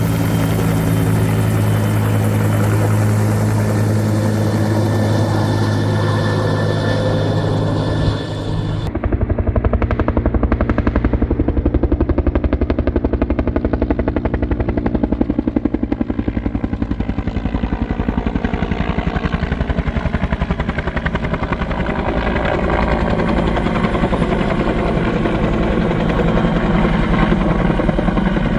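Helicopter's rotor and turbine engine running loudly and steadily. About eight seconds in the sound changes abruptly to a rapid, even beat of the rotor blades.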